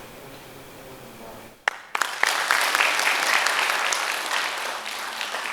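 Audience applauding. The clapping breaks out suddenly about a second and a half in, after quiet room murmur, then carries on dense and loud.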